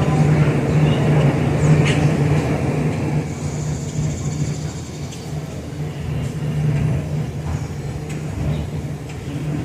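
A steady, loud engine rumble with a constant low hum, easing off a few seconds in.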